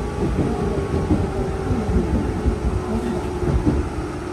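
Shizuoka Railway 1000-series electric train running: a steady low rumble with wavering whining tones from the running gear.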